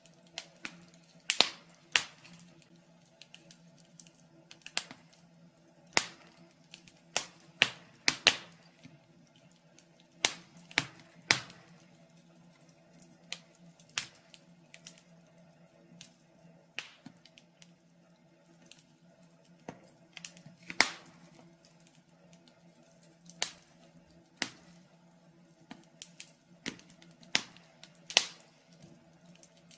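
Wood fire in a fireplace crackling: irregular sharp pops and snaps, some much louder than others, over a faint steady hum.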